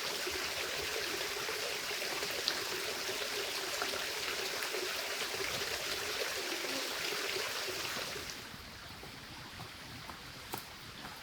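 Running water, a steady rush like a forest stream, that falls away abruptly about eight seconds in, leaving only faint ticks and taps.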